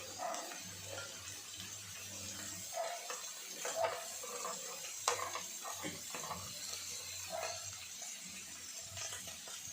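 Meat sizzling steadily on an electric grill pan, with a few light clicks of utensils or food being handled.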